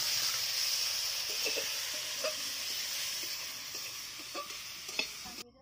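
Chopped tomatoes and green chillies sizzling steadily in hot oil in a metal kadai over a wood fire. A single sharp metal clink comes near the end, and the sizzle then cuts off abruptly.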